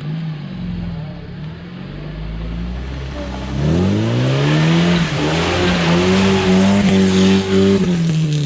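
UAZ off-road vehicle's engine driven hard: it runs steadily at first, then revs up sharply about three and a half seconds in and holds high revs with a loud rushing hiss, easing off near the end.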